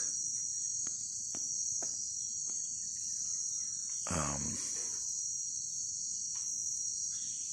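Steady, high-pitched chorus of insects, shrill and unbroken, with a brief muffled sound about four seconds in.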